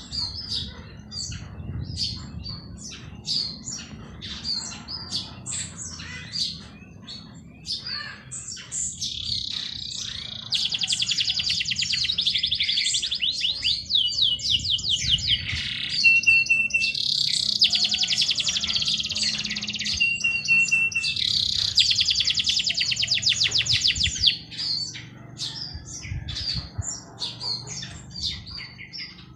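Songbirds chirping, with several long, fast trilled phrases from about 9 to 24 seconds in, over a low steady background rumble.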